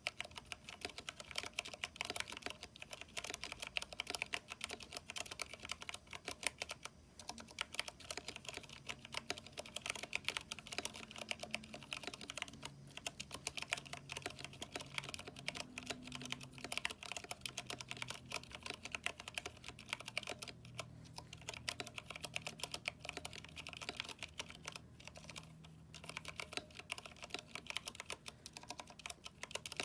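Continuous fast typing on a Vortex 10th Anniversary Edition mechanical keyboard with Cherry MX Brown switches and NP PBT keycaps: a dense run of keystroke clacks, with two short pauses.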